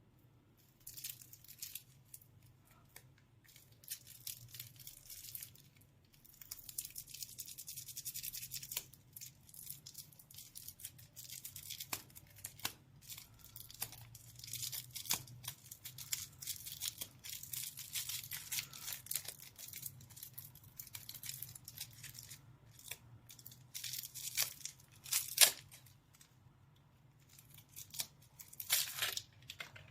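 Lollipop wrappers being torn open and unwrapped: crinkling and tearing of thin plastic wrapper film in irregular spells with short pauses, and one sharp snap near the end.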